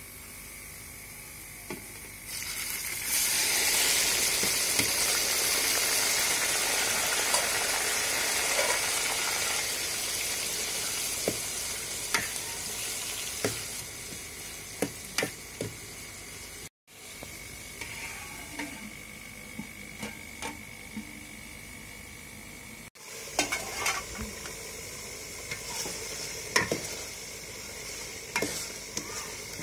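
Chopped tomatoes hitting hot oil and fried onions in a metal pot: a loud sizzle sets in about three seconds in and slowly dies down. Then a metal ladle stirs the mixture, clinking and scraping against the pot, the clinks coming thicker near the end.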